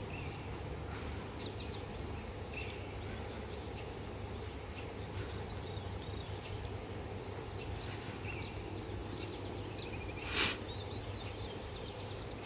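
Faint, scattered bird chirps over a steady outdoor background hum, with one short loud sound across most of the range about ten seconds in.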